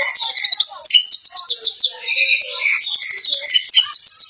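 Orange-headed thrush (anis merah) in full song: loud, high-pitched, rapid trills of fast repeated notes, several runs in a row, mixed with shorter lower notes.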